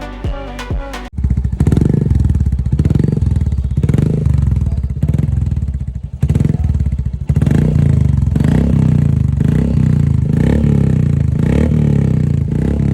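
Royal Enfield Hunter 350's single-cylinder engine running loud through an aftermarket exhaust. Background music plays in the first second before the engine comes in, and the engine sound dips briefly about six seconds in.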